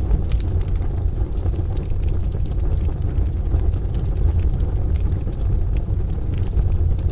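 Ambience of rain and distant thunder as a deep, steady rumble, with faint scattered crackles of a wood fire over it.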